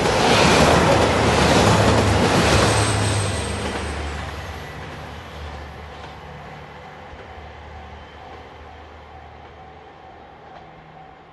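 Red Anpanman-liveried JR 2700 series diesel express train passing close by, its rush of wheel and engine noise loudest in the first three seconds and then fading away. A level-crossing bell rings faintly and steadily in the second half.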